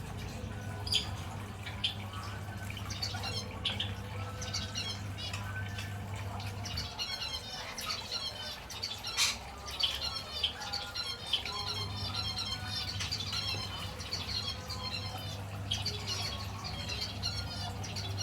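Lorikeets chattering and squawking in a steady stream of rapid, high, twittering calls, broken by a few sharp, louder shrieks.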